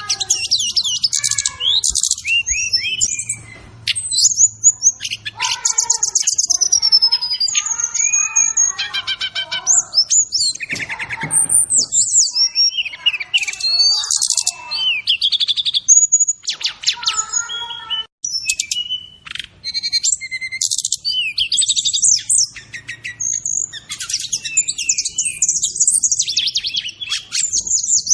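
A songbird master recording for training cage birds: the song of a brown-chested jungle flycatcher mixed with fill-in songs of other birds. It is a continuous run of rapid, high-pitched chirps, trills and whistled sweeps, with some lower warbled phrases about a quarter of the way in.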